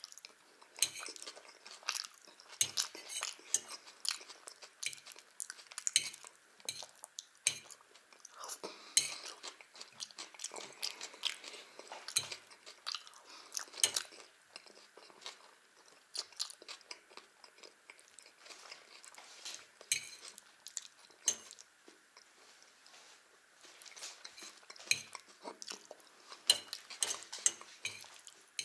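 Close-up chewing of Olivier salad with bread: wet mouth smacks and clicks in an irregular run, with a fork now and then clinking and scraping on the china plate. The eating sounds thin out for several seconds in the middle.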